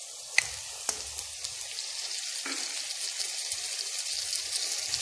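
Hot oil sizzling and crackling in a pan as raw chicken pieces are added onto scrambled eggs. The sizzle grows gradually louder, with a couple of sharp clicks in the first second.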